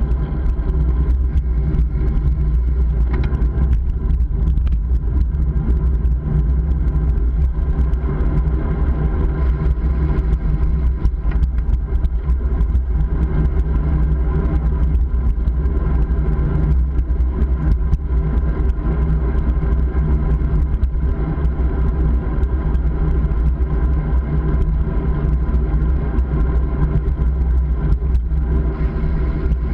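Wind and road noise on a camera microphone while riding, with heavy low rumble from the wind and a steady drone under it.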